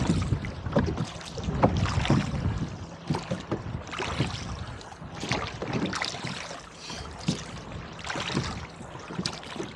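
Rowboat under oars in gusty wind: irregular splashes and slaps of water against the boat, over wind rumbling on the microphone. The wind is loudest at the start and eases after about a second.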